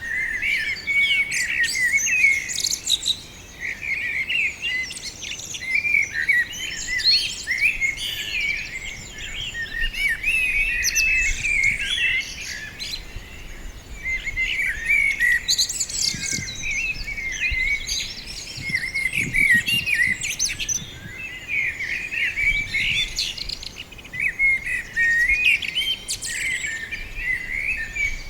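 Several small birds chirping and singing at once in a dense, overlapping chorus of quick high notes and trills, with a soft low rumble of wind in the middle.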